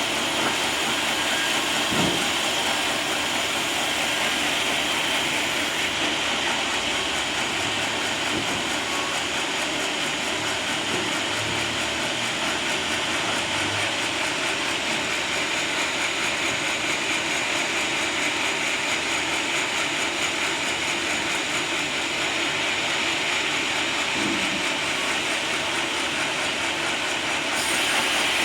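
Sawmill machinery running steadily, a continuous mechanical noise with a strong high hiss. The highest part of the hiss drops away about six seconds in and comes back near the end.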